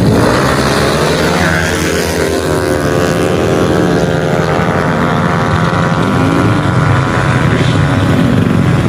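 Tuned 155cc automatic scooter engine running loudly at a steady pitch.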